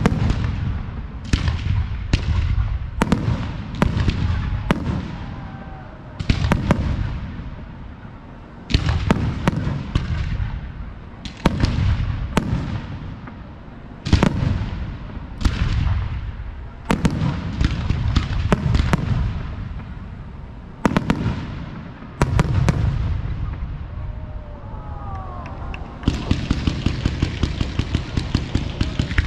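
Fireworks display: loud bangs every second or two, each followed by a long rolling echo. About three seconds before the end, a rapid, even string of sharp small cracks sets in, many to the second.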